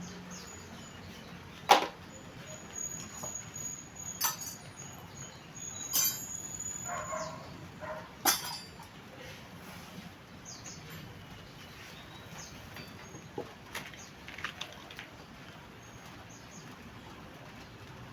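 A few sharp clicks and knocks, four loud ones a couple of seconds apart, with a faint thin high tone in between and a few softer ticks later.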